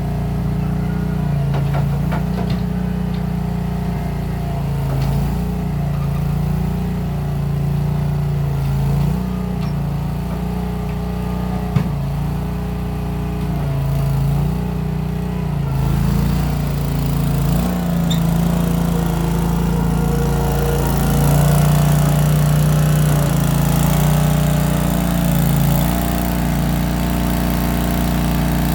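Case 1816 skid steer engine running, its speed stepping up and down every second or two as the machine works. A single sharp knock about twelve seconds in.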